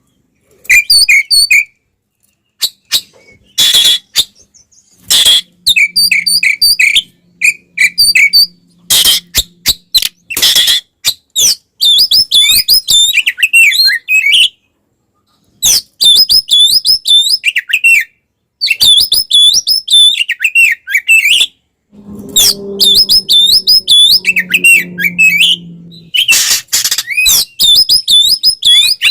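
Oriental magpie-robin (kacer) singing loudly in its aggressive fighting song: rapid phrases of varied rising and falling whistles, chirps and harsh notes, broken by short pauses.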